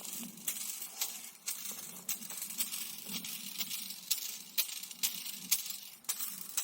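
Pieces of glowing charcoal from a burnt-down bonfire being raked and shifted, clinking against each other in sharp, irregular clicks several times a second.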